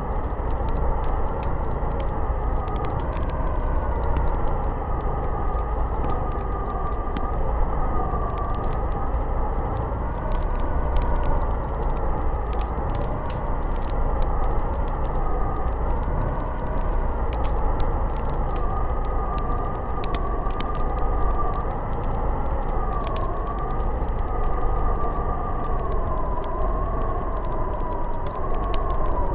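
Snowstorm wind howling steadily, its whistling pitch slowly wavering up and down over a constant rush, with scattered faint ticks.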